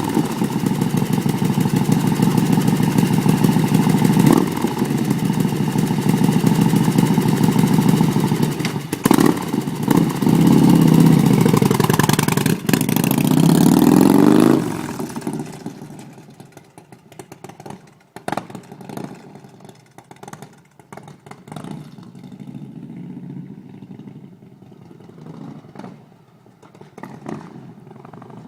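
Harley-Davidson FLT's 124-cubic-inch V-twin running loud through a Samson exhaust, revved up and down a few times. About halfway through the sound falls away quickly and stays much fainter.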